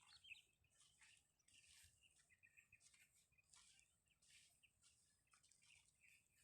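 Faint outdoor birdsong: short chirps repeating every half second or so over near silence.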